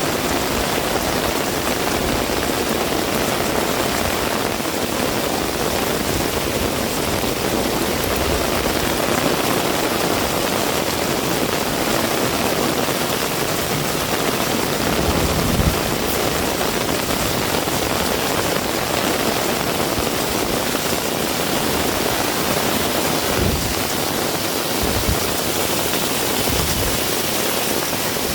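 Heavy rain falling steadily in a dense, even hiss. A few brief low thuds come through, one about halfway and a couple near the end.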